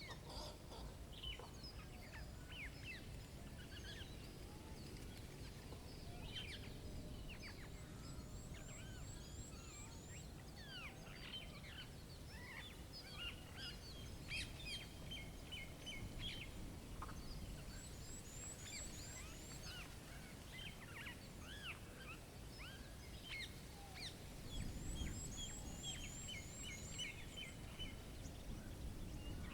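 Many small songbirds chirping and calling, with short quick notes throughout and three brief fast runs of very high notes. A steady low rumble of wind lies underneath.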